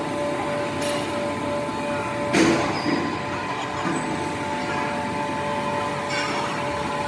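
Heavy machinery running with a steady hum, and a single sharp clank about two and a half seconds in.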